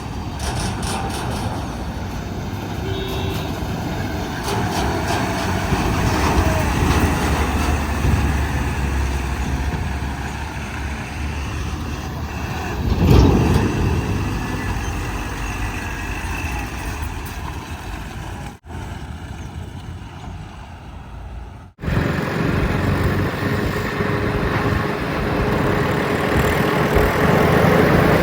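Heavy diesel engines of a backhoe loader and tipper trucks running at a loading site, with a louder swell about halfway through. The sound cuts out briefly twice in the last third.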